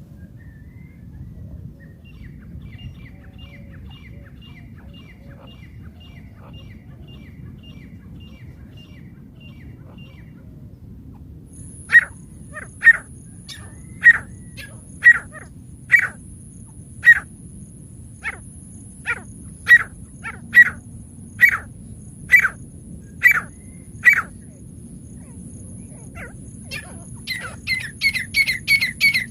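Francolin (teetar) calling. A faint quick run of short notes comes first, then from about twelve seconds a series of loud, sharp single calls roughly one a second, and near the end a fast chatter of calls. A thin, steady, high whine sounds under the later calls.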